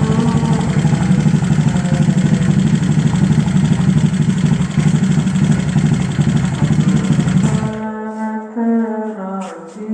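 Bored-up Honda Vario 150 single-cylinder scooter engine idling with light throttle through an aftermarket racing exhaust, with a steady, fast-pulsing note. It cuts off suddenly about eight seconds in, and a quieter melodic sound with wavering pitch follows.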